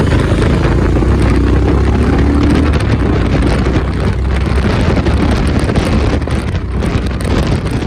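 Royal Enfield motorcycle running steadily at highway speed, its engine rumble mixed with heavy wind rush on the microphone.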